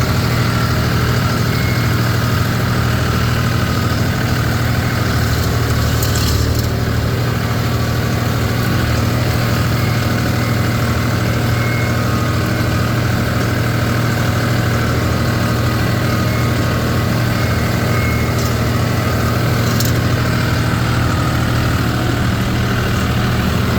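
Tractor engine running steadily while baling hay, its level unchanging, with a few light clicks now and then.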